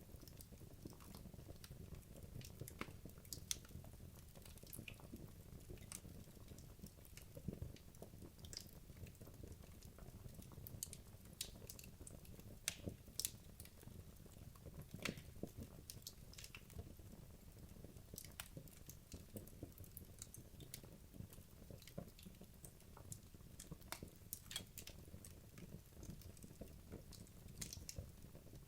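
Wood logs burning in a fireplace: faint, irregular crackles and small sharp pops over a low, steady rumble from the fire.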